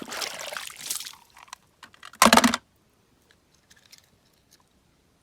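Water splashing and trickling as a toy car is rinsed clean, with a short loud splash about two seconds in, then faint clicks of small plastic toys being handled.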